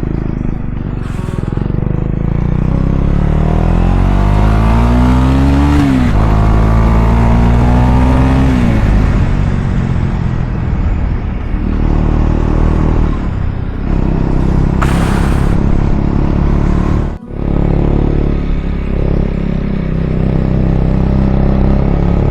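KTM Duke 250 single-cylinder engine accelerating while riding: its pitch rises through a gear, drops at a shift about six seconds in, and climbs again until about eight and a half seconds, then settles to a steadier running note under a rush of wind and road noise.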